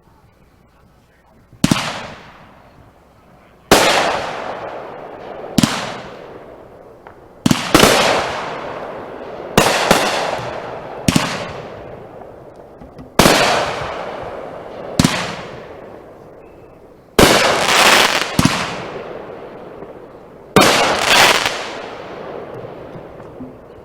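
Fireworks going off: about a dozen loud bangs one to two seconds apart, each with a fading tail, two of them coming close together near the end.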